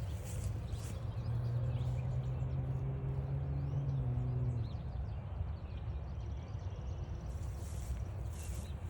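Outdoor trail ambience: a steady low rumble, with a distant motor hum from about a second in that lasts a few seconds and drops in pitch as it fades. Faint bird chirps come and go over it.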